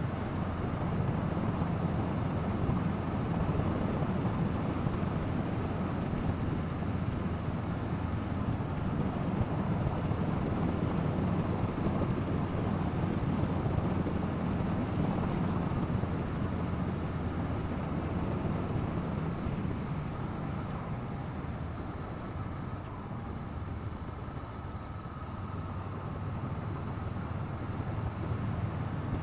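Riding wind noise on the action camera's microphone, with the 2017 Honda CB500F's parallel-twin engine running underneath. The noise eases for a few seconds about two-thirds of the way through, then builds again.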